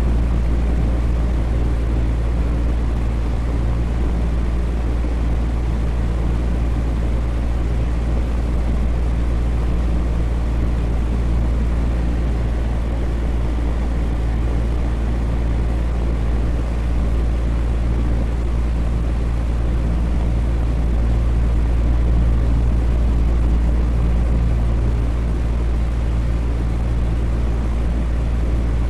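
Electric fan running steadily: a constant deep whoosh with a low motor hum, unchanging throughout.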